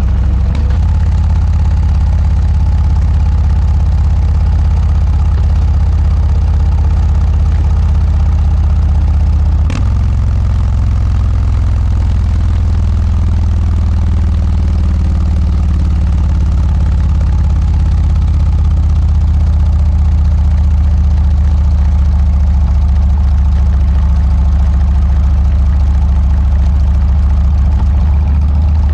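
Harley-Davidson Dyna's V-twin engine running steadily at an even speed through a Motorstage aftermarket muffler, with a single sharp click about ten seconds in.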